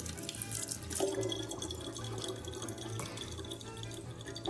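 Tap water running from a kitchen faucet in a thin steady stream, splashing into a large plastic water bottle.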